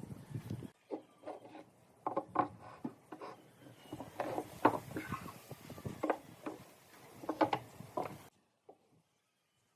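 Irregular knocks, taps and rubbing of wooden pieces being handled and worked. The sound stops abruptly about eight seconds in.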